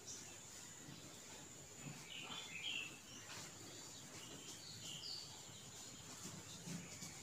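Faint bird chirps, a few short calls about two seconds in and again around five seconds, over a thin steady high whine and quiet room tone.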